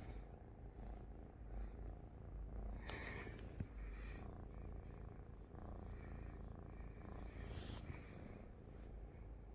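Domestic cat purring steadily, close up, with a couple of brief soft noises about three seconds in and near eight seconds.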